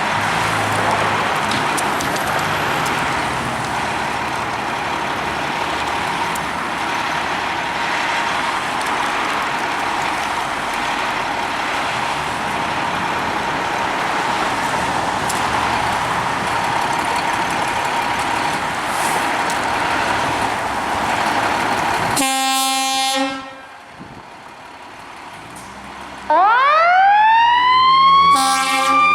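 Fire truck on an emergency run: a long stretch of steady vehicle and street noise, then a short air-horn blast about 22 seconds in. A few seconds later the siren winds up, sweeping from a low pitch to a high wail, with another short air-horn blast near the end.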